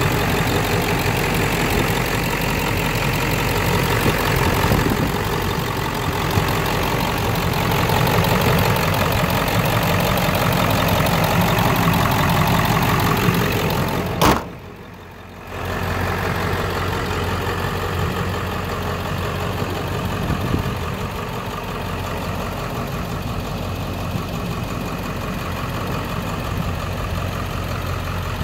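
Ford 7.3 L Powerstroke V8 turbo-diesel idling steadily. About halfway through there is a click and the sound drops out for about a second and a half, then comes back.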